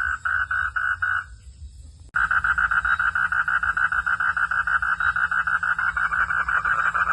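A frog calling in a rapid series of pulses, about four a second, stops just over a second in. After a short lull the calling starts again abruptly at a faster pulse, about eight a second, and keeps on, growing a little louder near the end. A steady low hum runs underneath.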